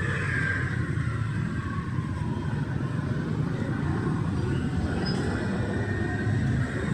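Road traffic going by: a steady low rumble of vehicles, with a faint falling engine tone in the first second or so.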